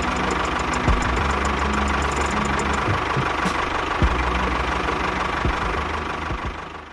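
Engine idling steadily with a few knocks, fading out near the end.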